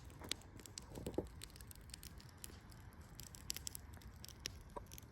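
Faint, scattered crackles and ticks from a small campfire that is dying down, over a low steady background rumble.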